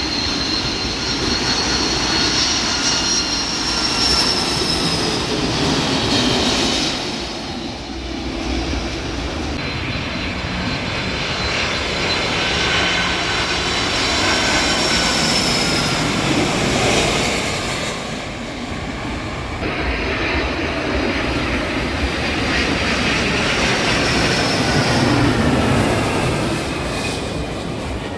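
Jet airliner engines passing low overhead on landing approach: a loud rushing noise with high turbine whines sliding slowly down in pitch as the aircraft goes by. The sound changes abruptly several times, like cuts between separate passes.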